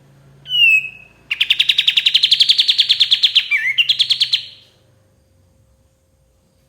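Pied triller (kapas tembak) singing: a short falling whistle, then a fast, slightly rising trill of about eleven notes a second lasting some three seconds.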